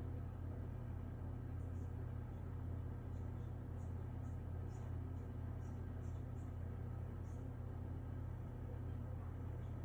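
A steady low hum, with faint, short high ticks now and then.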